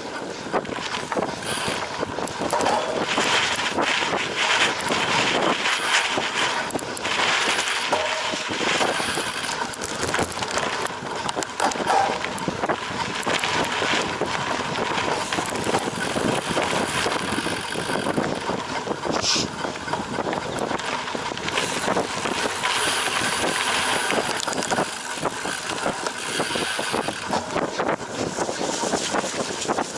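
A cyclocross bike ridden hard over a rough off-road course: tyres rumbling on the ground, with the frame and chain rattling and knocking continuously over the bumps.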